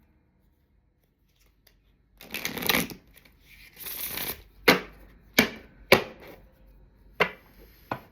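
A deck of cards being handled and shuffled: a short rustling shuffle about two seconds in, a softer one after it, then five sharp slaps of cards, each under a second apart.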